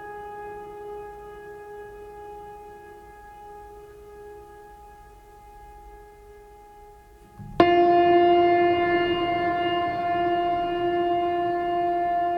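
Background music of long held synthesizer-like tones, without a beat. About two-thirds of the way through it cuts abruptly to a louder held chord at a lower pitch.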